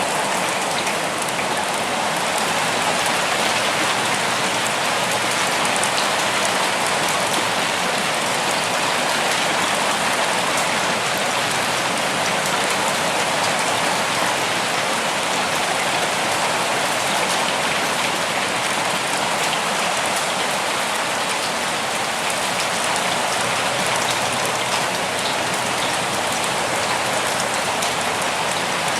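Steady rain falling and pattering on surfaces, a dense even hiss dotted with faint drop ticks.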